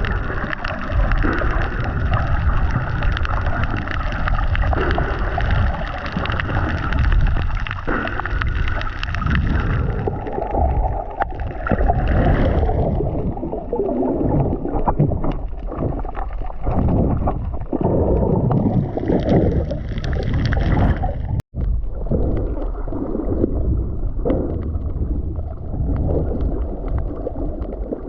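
Muffled water sloshing and gurgling around an action camera in the water while snorkelling, with irregular surges. There is a brief cut-out of all sound about two-thirds of the way through.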